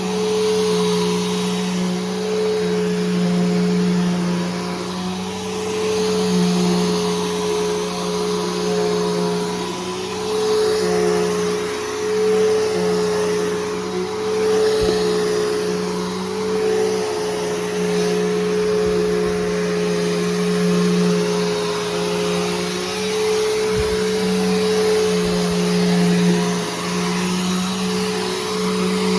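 Bissell Powerforce Helix Turbo upright vacuum cleaner running steadily: a motor hum with a higher whine over the rush of air. The level swells and dips gently every couple of seconds.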